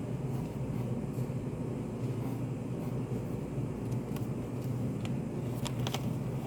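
Study-café room ambience: a steady low hum of ventilation or air conditioning, with a few faint clicks or taps in the second half.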